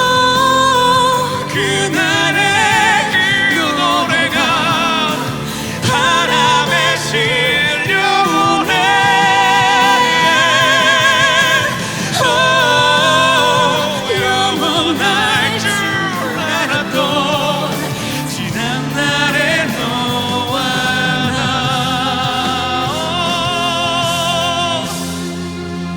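Live pop ballad singing with strong vibrato on long held notes, over instrumental accompaniment; it gets quieter near the end.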